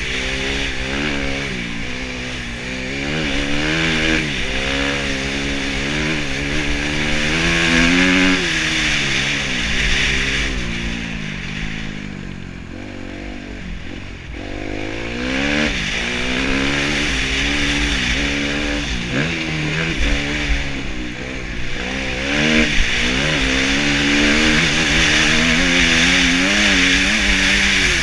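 Kawasaki KX250F motocross bike's single-cylinder four-stroke engine revving up and dropping back over and over as the throttle is worked around the track, easing off for a few seconds around the middle. A steady hiss runs underneath.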